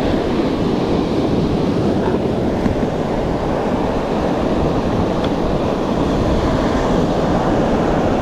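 Surf washing onto the beach, with wind buffeting the microphone: a steady rushing noise.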